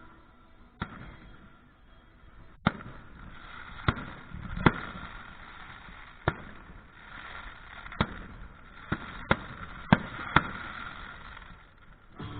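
Fireworks display: about ten sharp bangs of bursting shells at irregular intervals, with a fainter crackle and hiss between them.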